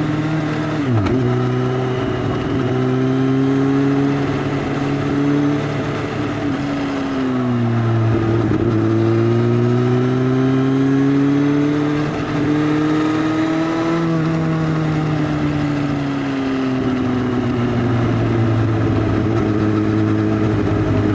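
2018 Suzuki GSX-S1000's inline-four running loud through an Arrow Race Tech full exhaust system with the dB killer removed. The engine pitch holds, dips about eight seconds in, climbs slowly, then falls again around fourteen to sixteen seconds before rising once more, as with a bike riding on and off the throttle.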